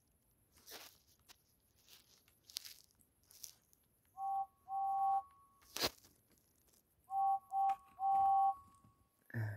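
Two-tone steam-engine whistle toots: two about four seconds in, then three more about seven seconds in, with the last of each group held longest. Light clicks and rustles of handled plastic pieces come between them, with a sharp click near the middle and a thump near the end.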